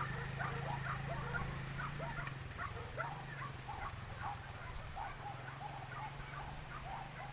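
A small engine running steadily at low revs, with a string of short, high chirping calls over it, two or three a second.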